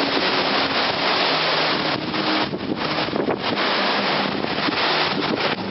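Wind buffeting the microphone: a loud, steady rushing noise with faint low steady tones underneath.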